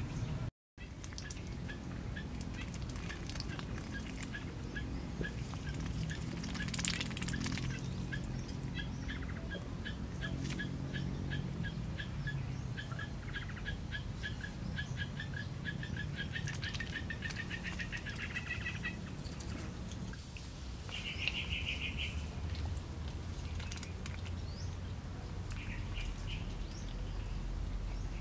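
A bird calling a long series of short, clear notes that steadily speed up for a quarter of a minute and then stop. A brief buzzy call follows a couple of seconds later, over a steady low hum.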